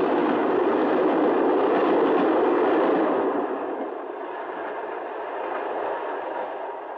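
A passing train rumbling steadily, loud at first and then fading away from about three seconds in.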